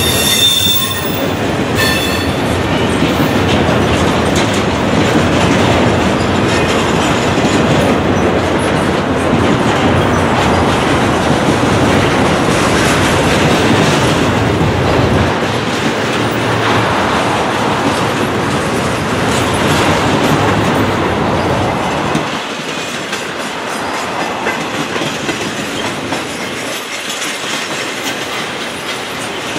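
Double-stack intermodal well cars rolling past close by: a steady rumble of steel wheels on rail with clickety-clack over the joints. A short, high wheel squeal sounds right at the start, and the rumble eases a little about two-thirds of the way through.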